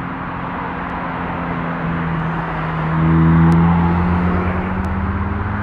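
Nissan 350Z's V6 engine accelerating away with a steady drone that slowly rises in pitch and grows louder about three seconds in, over the hiss of passing traffic.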